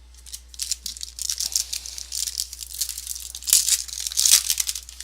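Plastic trading-card pack wrapper being torn open and crinkled in the hands: rapid crackling, loudest near the end.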